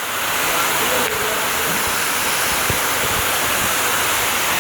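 Steady rushing of water, an even hiss with a few soft low thumps in the second half.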